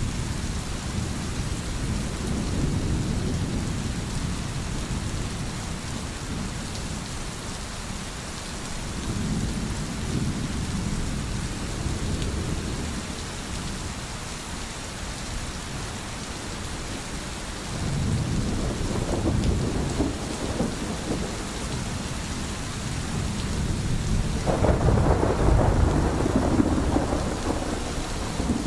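Steady rain with thunder rumbling: low rumbles swell and fade several times, and a louder, longer peal comes near the end.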